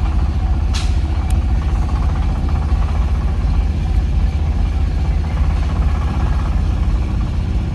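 A motor vehicle's engine running steadily with a low rumble, with two short clicks about a second in.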